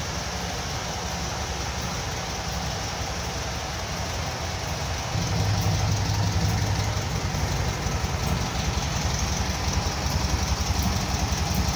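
VW 1300 Beetle's air-cooled flat-four engine idling steadily on a Solex 30 PIC carburettor with new jetting. It gets louder about five seconds in.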